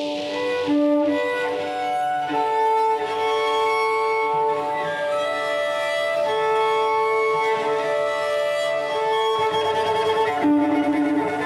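Bowed cello playing long held notes, several layered at once, moving slowly from one pitch to the next.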